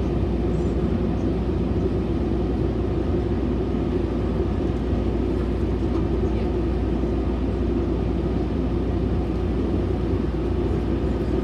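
Steady low rumble of a Metrolink commuter train running at speed, heard from inside a passenger car.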